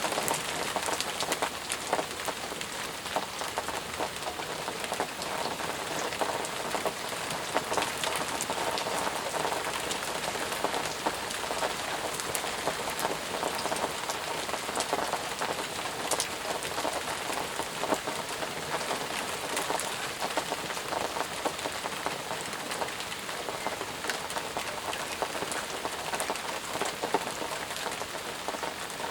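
Steady heavy rain falling, a dense hiss with many individual drops ticking on surfaces.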